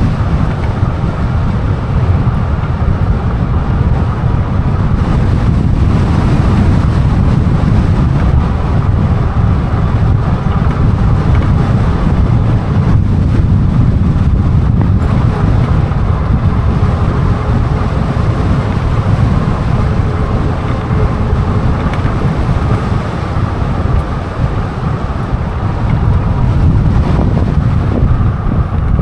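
Wind buffeting the microphone of a moving e-bike: a steady, loud, low rush of air noise, with a faint steady whine underneath.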